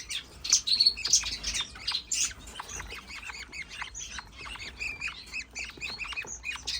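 Budgerigars chattering: a dense, unbroken run of short high chirps and squawks from several birds.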